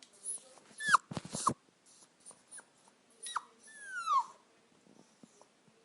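Dog whimpering: several short, high whines that fall in pitch, the longest about four seconds in, with a few sharp knocks about a second in.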